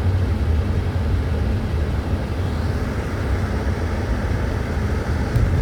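Car driving, a steady low rumble of road and engine noise heard from inside the cabin.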